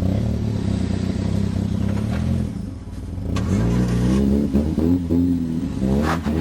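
Car engine running steadily, then after a short drop revving up and down repeatedly from about halfway in, as it works to get a car out of deep snow.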